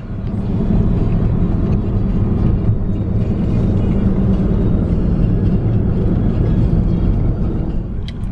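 Steady low road and engine rumble inside the cabin of a moving Ford Transit van.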